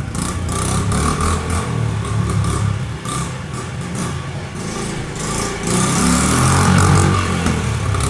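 Honda XR50/CRF50 pit bike's small four-stroke single-cylinder engine running and being ridden, pulling steadily and revving up louder for a couple of seconds near the end.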